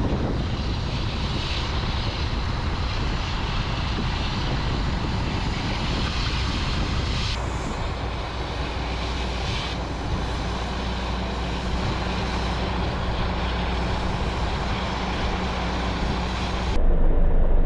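A heavy vehicle's engine running steadily, a constant low hum under a broad noisy rush. Near the end the sound switches abruptly to something louder.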